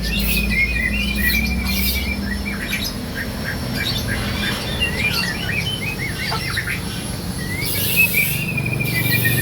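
White-rumped shama calling: a fast rattling chatter of repeated notes at the start and again near the end, with scattered short chirps between.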